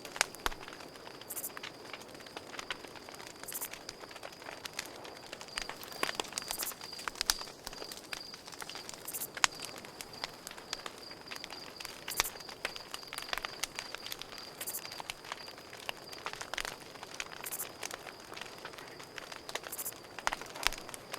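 Campfire crackling, with irregular sharp pops and snaps of burning wood. Crickets chirp steadily in a high, rapidly pulsing trill throughout.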